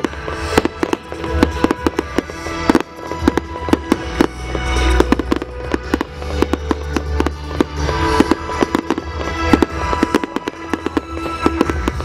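Fireworks going off in rapid bangs and crackles, many in quick succession, over music with steady held notes.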